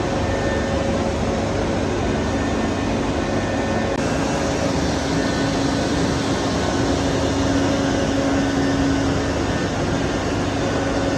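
Steady roar of power-plant machinery with a low hum that grows stronger about four seconds in.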